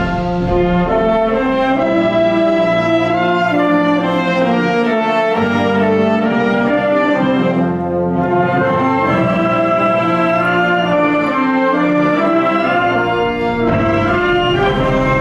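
Junior high school concert wind band playing, with the brass prominent in full, sustained chords; the sound thins briefly about halfway through before the ensemble continues.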